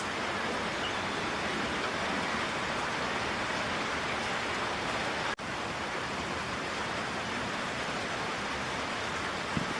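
Steady heavy rain falling, an even hiss with a split-second dropout about halfway through.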